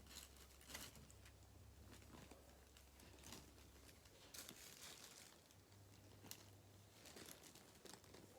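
Near silence with faint, scattered rustling and crackling over a low hum.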